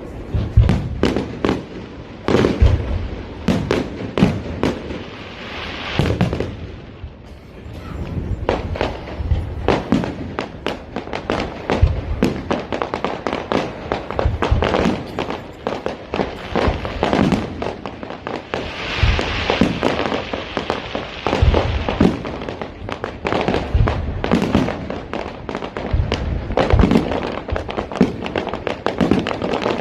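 Fireworks display: a dense run of sharp bangs and pops going off irregularly and often overlapping, with a burst of hissing crackle about two-thirds of the way through.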